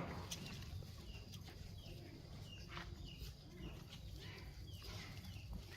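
Faint, repeated short high chirps from birds, about two a second, over a low steady hum.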